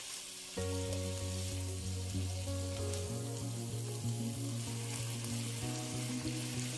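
Tuna flakes and marrow pieces sizzling in oil in a frying pan while a wooden spatula stirs them. Soft background music with sustained notes comes in about half a second in.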